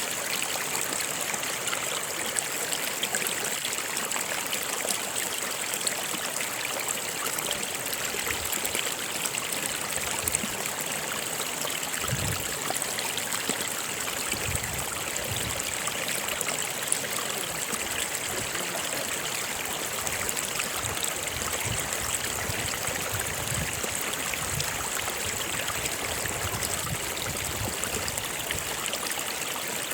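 Stream running: a steady rush and trickle of water, with occasional short low bumps in the second half.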